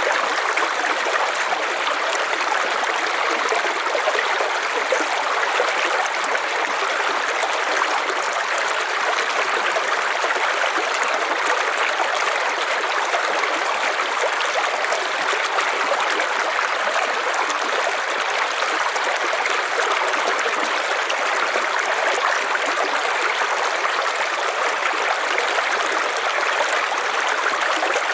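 River water flowing and burbling over stones in a steady, even rush.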